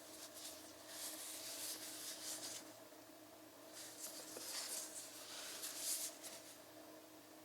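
Faint rubbing and scraping noises in two stretches, over a steady low electrical hum.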